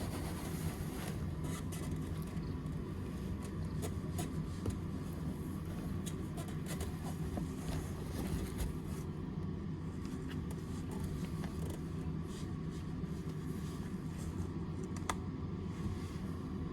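Domestic cat purring steadily, a low continuous rumble, with faint small clicks and scrapes over it.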